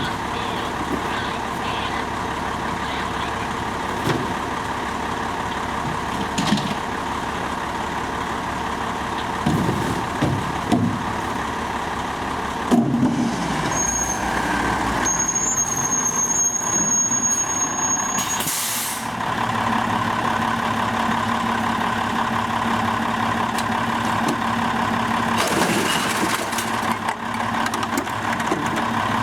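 Diesel recycling truck running steadily, with scattered clunks in the first half. A thin high whine runs for a few seconds around the middle, and two bursts of air hiss follow, one short just after the whine and one longer near the end.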